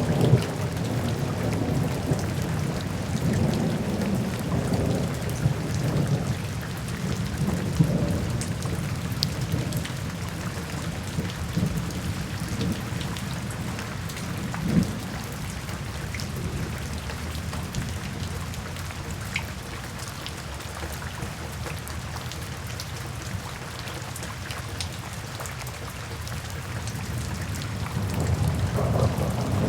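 Steady rain falling, with scattered drop ticks over a low rolling rumble. The rumble swells in the first few seconds, eases through the middle and grows again near the end.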